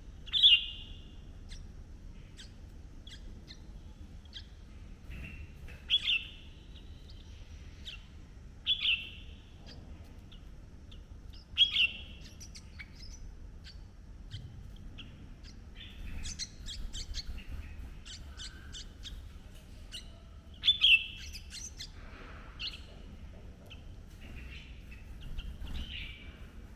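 Red-whiskered bulbul calling: a short, loud call repeated five times several seconds apart, with a run of rapid high chips in the middle.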